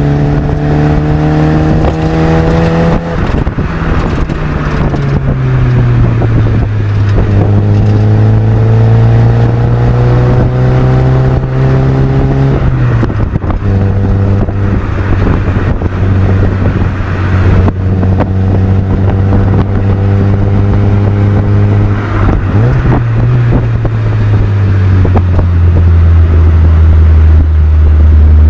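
Mazda MX-5 NB 1.8 four-cylinder engine breathing through an M2 Motorsport aftermarket exhaust while driving. The engine note climbs steadily under acceleration and drops sharply at an upshift about three seconds in. It climbs again and drops at another shift around thirteen seconds, then holds a steady cruise before stepping down once more in the last few seconds.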